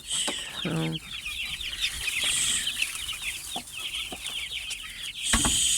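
A flock of young chickens (chicks) peeping continuously, many short, high, downward-sliding cheeps overlapping, with one brief lower call about a second in.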